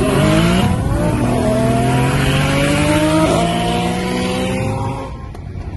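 Car engine at full throttle accelerating hard, its pitch climbing through the gears with a quick shift about a second in and another a little past three seconds. The engine note drops away near the end.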